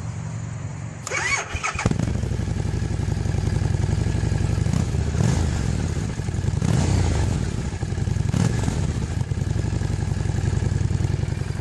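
Harley-Davidson Street 750 V-twin with its stock factory muffler, baffle still in, being started. It catches about two seconds in and then runs steadily, with a few short rises in revs.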